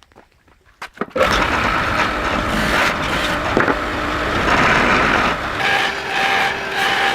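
A few light clicks, then about a second in a loud, steady machine noise starts abruptly and runs on. Near the end it takes on a regular pulsing, about one and a half beats a second.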